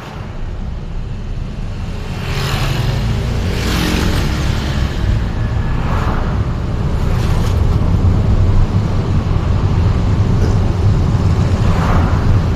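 Road traffic heard from a moving vehicle: a steady low engine and road rumble, with other vehicles rushing past several times, about two and a half, four, six and twelve seconds in.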